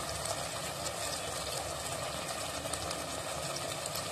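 Chopped tomatoes and onions frying in oil in a pan, a steady sizzle with small crackles over a low hum.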